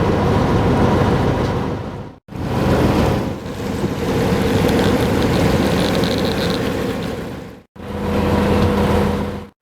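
A vehicle engine running steadily under a rushing noise, heard in three short pieces cut abruptly one after another.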